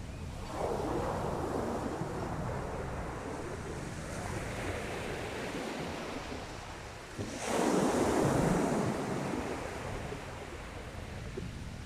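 Sea waves washing onto a shingle beach, a larger wave breaking suddenly about seven seconds in and hissing as it draws back, with wind on the microphone.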